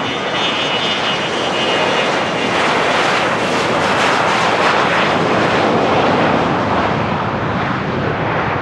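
Business jet passing close by, its engine noise building to a peak midway and easing toward the end. A high turbine whine is heard over it in the first two seconds.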